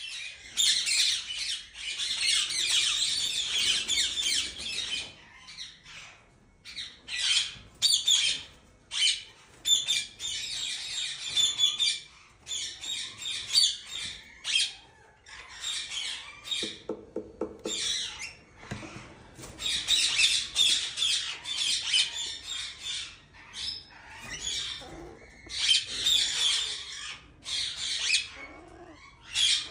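Birds squawking and chattering in harsh, shrill bursts, some running for several seconds, broken by short pauses. A brief lower, pitched call sounds about seventeen seconds in.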